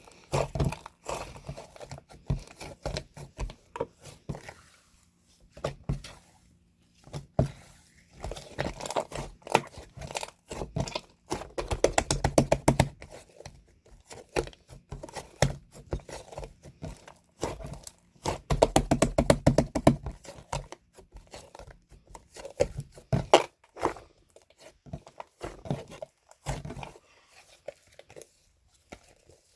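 Irregular crinkling, scraping and tapping of objects being handled, with two longer stretches of rapid, dense clicking, about a third of the way in and again about two-thirds in.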